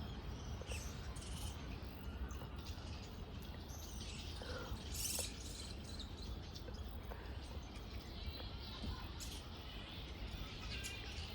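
Scattered short, high squeaks and chatter from a roosting colony of grey-headed flying foxes (large fruit bats) in the trees, with one brief falling call about four and a half seconds in, over a steady low rumble.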